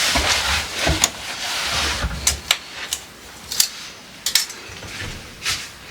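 Light clatter and knocks of household items being handled and set down, after a rustling, rushing noise in the first two seconds.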